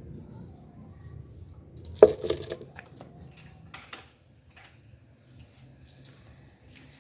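Metal spark plugs clinking against each other and a hard surface as they are handled: a quick cluster of bright metallic clinks about two seconds in, the loudest sound, and a lighter clink nearly two seconds later.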